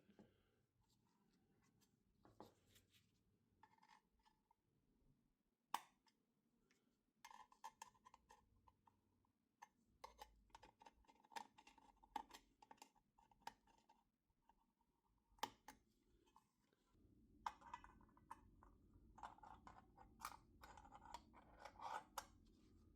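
Faint, sparse clicks and short scraping, rubbing sounds of small objects being handled, with sharper knocks about six and fifteen and a half seconds in and a busier run of scraping near the end.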